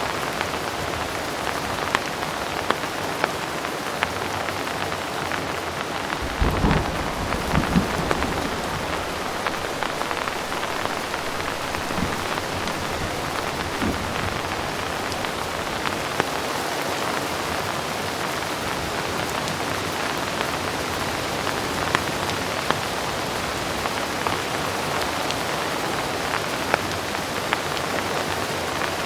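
Heavy, steady rain, with single drops ticking sharply now and then. About six seconds in, thunder gives a short, low rumble.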